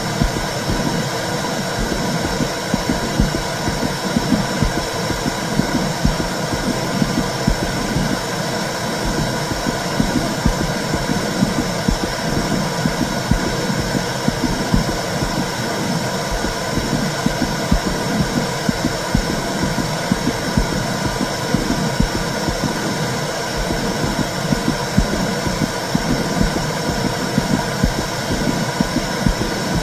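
Womb sound recording: a steady low whooshing rumble with a throbbing pulse like a mother's heartbeat, used to soothe a baby to sleep.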